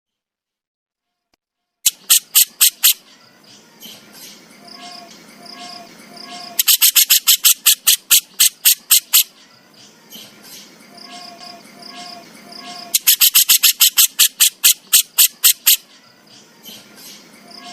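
Jenggot jawa bird giving its besetan: harsh rattling trains of rapid dry clicks, about seven a second, in three loud bouts of one to three seconds each, with softer chattering between them.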